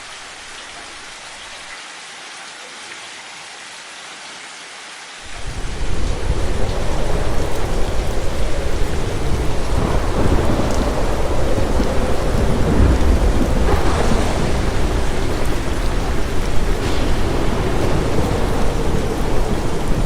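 Storm noise: a quieter steady hiss, then about five seconds in a much louder rushing noise with a deep rumble cuts in and carries on.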